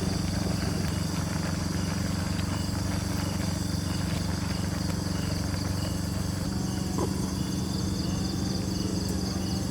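Rainforest insects chirping, a steady high-pitched drone with short chirps repeating about twice a second, over a steady low mechanical hum.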